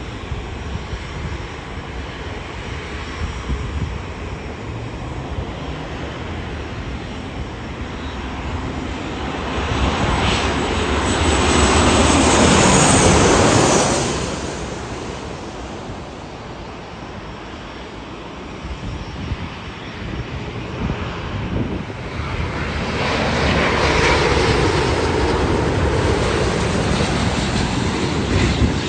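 Jet airliner engines passing close by, swelling to a loud peak with a high whine about halfway through and then fading, followed by another swell of jet noise near the end.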